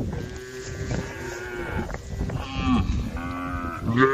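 Cow mooing: a run of about four drawn-out calls one after another, the loudest beginning near the end.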